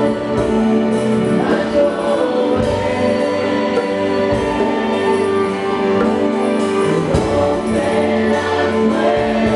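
Christian worship music: a choir singing long held notes over instrumental backing.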